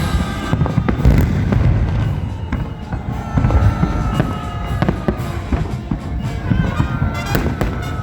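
A fireworks salute going off: a dense run of booms and crackling bursts, with music playing alongside.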